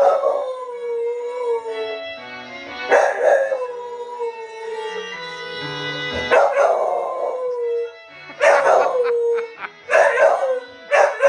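A dog howling along to a TV theme tune: about six howls, the first few long and sliding down in pitch, the last ones shorter and coming faster near the end, over the music playing through a speaker.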